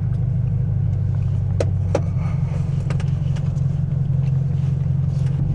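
Straight-piped 2016 BMW F30 328i's turbocharged four-cylinder engine and exhaust running steadily at a constant low pitch, with no revving or pops; a couple of short clicks about a second and a half in.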